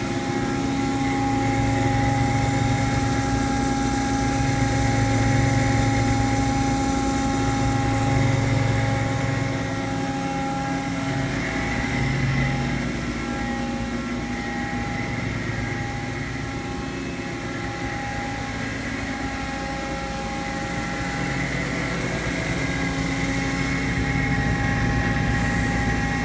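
Ingersoll Rand 10 hp rotary screw air compressor running steadily under load, building up tank pressure: a continuous hum with several steady whining tones above it.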